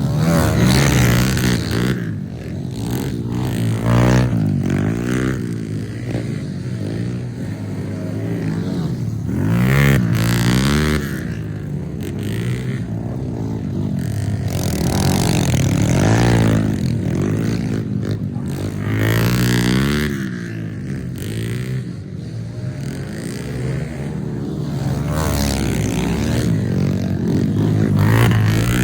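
Small pit bike engines revving hard and easing off over and over, the pitch climbing and dropping every few seconds as the bikes ride a track.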